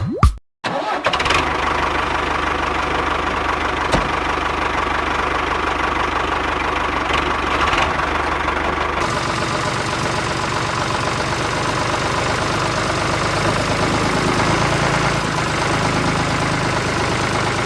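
Small electric motor driving a homemade miniature machine, running steadily with a whirring, rattling mechanical noise; its sound changes about halfway through.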